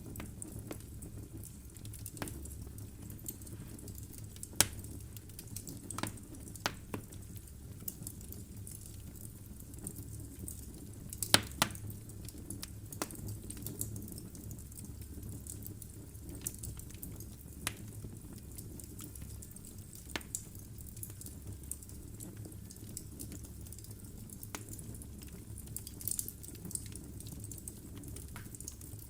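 Wood fire burning in a fireplace: a low steady rumble of flame with scattered sharp crackles and pops from the burning logs, the loudest about four and a half and eleven seconds in.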